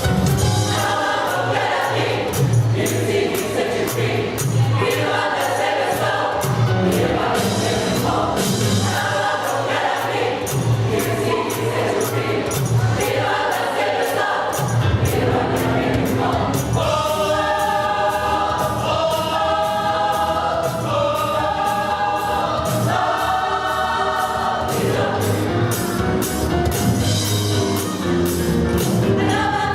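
Gospel choir singing over music with a steady beat, sustaining held chords in the second half.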